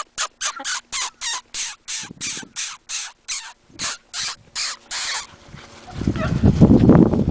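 A dog panting rapidly and steadily, about three to four breaths a second, stopping after about five seconds. About six seconds in, a loud low rumbling noise starts.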